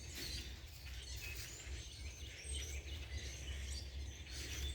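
Scattered bird chirps over a steady low rumble.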